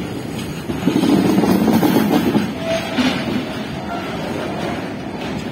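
Loaded BRNA bogie flat wagons carrying rails rolling past close by, their wheels running on the track in a steady heavy rumble that swells about a second in and eases after two and a half seconds. A few brief high tones come through near the middle.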